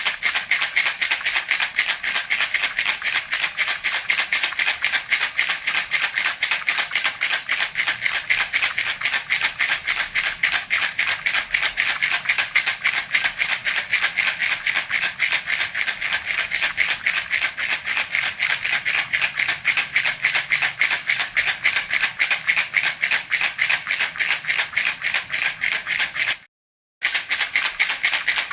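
Baby rattle (jhunjhuna) shaken continuously in a rapid, even rhythm, a bright beady rattling; it breaks off for about half a second near the end and then carries on.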